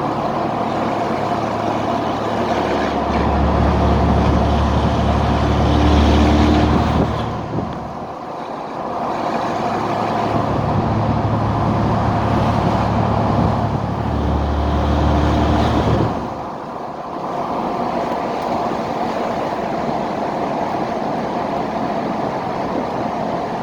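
Straight-piped 2003 Cummins 5.9-litre turbo-diesel pulling hard twice, its low exhaust drone swelling and climbing in pitch for several seconds and then dropping off sharply, about seven and sixteen seconds in, as the throttle is lifted. It then settles into steady cruising.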